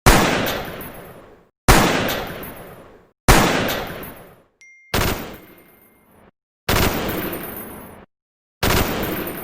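Gunshot sound effects played one after another: six single shots about every second and a half, each with a sharp crack and a ringing tail, separated by brief silences.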